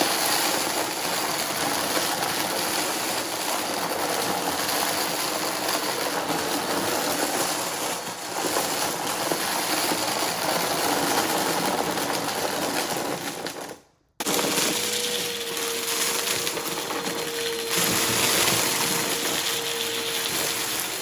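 Upright vacuum cleaner running over a rug and sucking up dry debris, a steady loud rushing with rattling bits. About two-thirds of the way through it cuts out suddenly for a moment, then runs again with a steady whine added.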